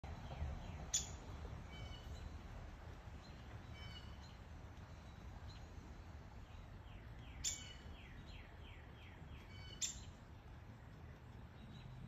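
Birds calling over a steady background hiss of light rain, with three sharp, loud notes: about a second in, at about seven and a half seconds and near ten seconds. Between them come runs of short, quick, falling chirps.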